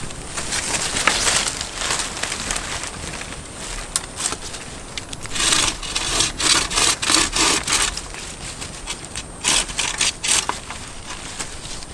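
Wood being worked by hand: rhythmic rasping strokes, like sawing, coming in a quick run of about two to three strokes a second midway through, then a few more near the end.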